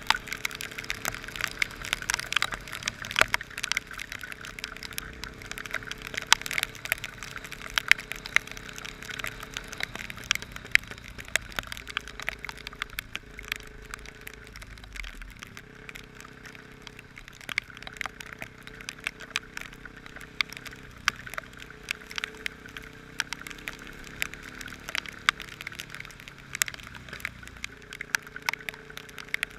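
Heavy downpour: raindrops striking close to the microphone in a dense run of sharp, irregular ticks over a steady hiss of rain, with a faint steady hum underneath that comes and goes.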